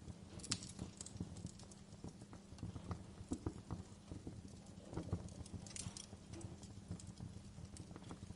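Wood fire crackling in a fireplace: irregular sharp pops and snaps of varying strength, coming in small clusters, over a steady low hum.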